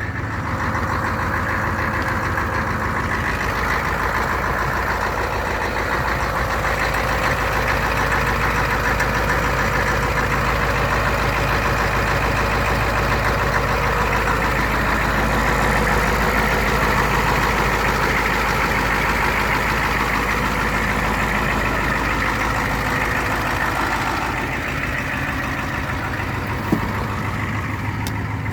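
Ford 7.3-litre IDI V8 diesel with Banks turbo idling steadily just after a cold start at about 30 °F, its injection pump turned up and timing slightly advanced. It eases a little quieter near the end.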